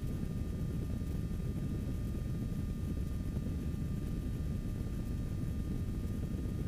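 Steady low rumble of a Kitfox IV light aircraft in level flight, its Rotax 582 two-stroke engine and the airflow heard from inside the cockpit.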